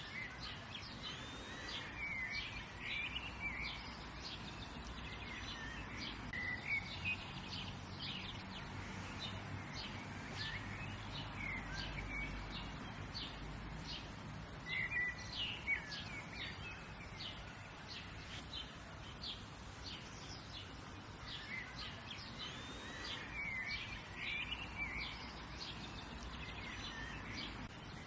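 Many small birds chirping and twittering in short, overlapping calls over a steady background hiss and low rumble.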